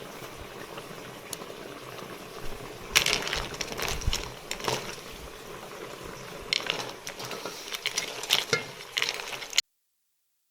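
Liquid bubbling at a boil in a pot, with a few scattered knocks and clinks; the sound cuts off to dead silence about a second before the end.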